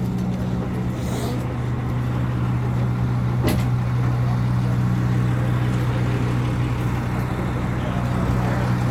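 Boat's engine running steadily, an even low drone, with a single sharp click about three and a half seconds in.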